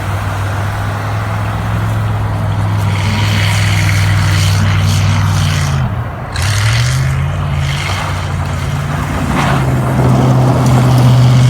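1968 Dodge Charger's big-block V8 under hard throttle through a 727 automatic. The engine note holds steady, drops sharply about six seconds in, then climbs back and settles higher.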